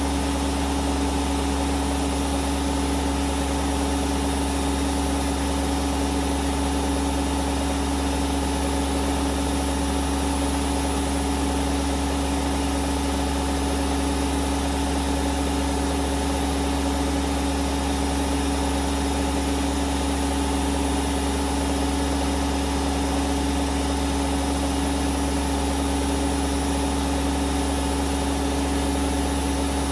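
Hoover Vision Dynamic washing machine spinning steadily: a constant motor whine with a steady low hum, unchanging throughout.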